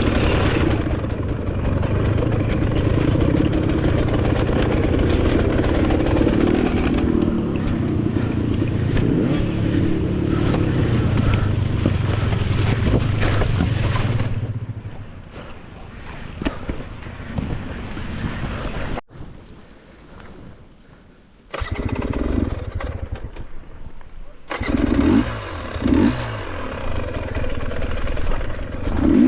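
Dirt bike engine running under throttle with changing revs, falling away about halfway through to a quieter stretch. The engine comes back in the last third, with two quick revs near the end.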